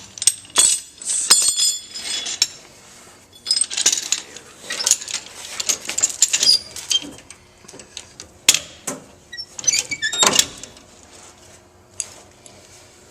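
Steel tie-down chain clinking and rattling in irregular bursts as it is handled and hooked into a loop on the car's frame, with a louder clank near the end.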